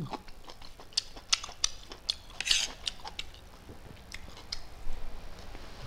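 A person eating rice: chewing with a series of sharp mouth clicks and smacks, and a short noisy burst about two and a half seconds in.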